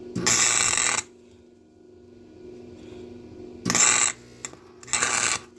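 Wire-feed welding gun laying three short tack welds, each a harsh crackling arc: the first just under a second long, then two briefly near the end. This is a nut being welded onto the end of a broken bolt so it can be turned out. A steady low hum sits underneath.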